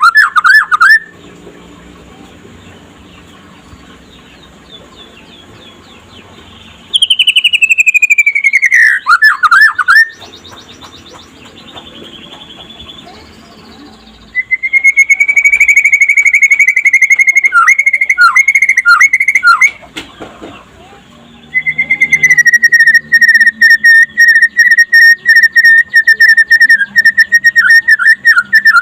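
Young white-rumped shama singing loud whistled phrases. Falling whistles end in a few quick notes, and long rapid trills are held on one high pitch, with quieter pauses of a few seconds between phrases.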